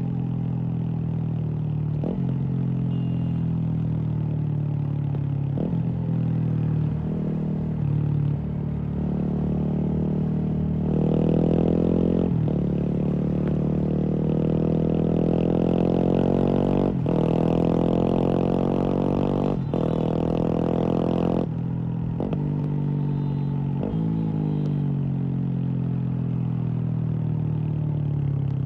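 Kawasaki KLX230's single-cylinder engine running through a Norifumi full-system exhaust while the bike is ridden. The engine pitch climbs steadily and then drops sharply again and again as the rider shifts up through the gears.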